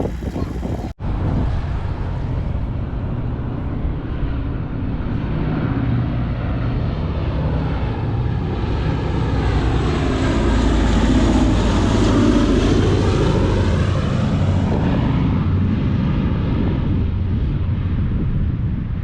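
Boeing B-17 Flying Fortress's four radial piston engines running as the bomber passes, growing loudest about halfway through with a sweeping, phasing sound, then easing off. The sound cuts out for a moment about a second in.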